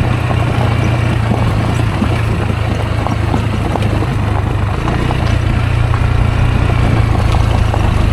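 Rieju Aventura 125's single-cylinder four-stroke engine running at steady low revs on a rough dirt track, with many small knocks and rattles over it.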